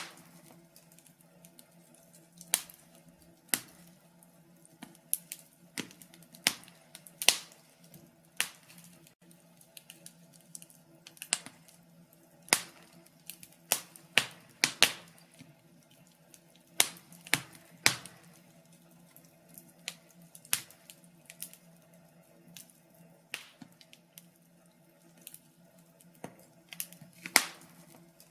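Wood fire crackling in a fireplace: sharp pops and snaps at irregular intervals, roughly one a second, over a faint steady low hum.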